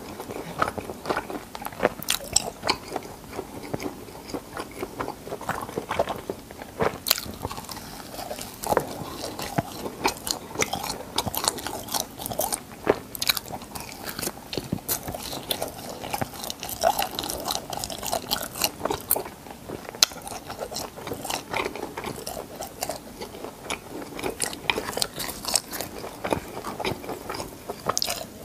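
Close-miked chewing and crunching of crispy fried cheese balls: irregular sharp, crisp crackles and wet mouth sounds.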